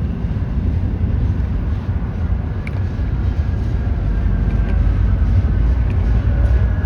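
Steady low rumble of a large vehicle, growing slightly louder over the last few seconds, with faint high tones above it.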